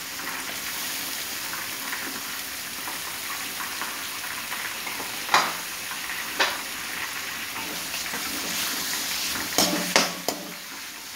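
Sliced onions sizzling steadily in hot oil in an aluminium kadhai. There are two sharp knocks around the middle as chopped tomatoes are tipped in. Near the end a metal spatula scrapes and clatters against the pan as the mix is stirred.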